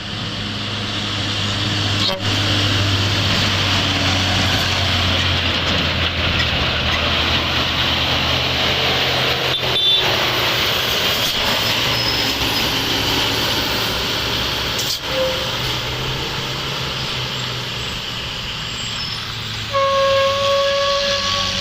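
Overloaded dump truck on a steep downhill grade, its brakes and engine making a steady noisy rush over a low hum. A vehicle horn sounds near the end.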